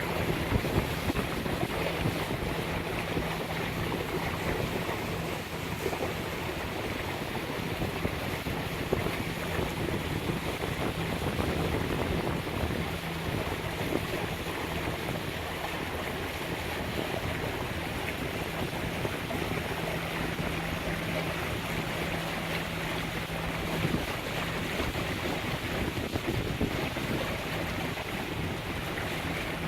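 Lagoon 42 catamaran motoring on its diesel engines: a steady low engine hum under the rush of water and wind buffeting the microphone.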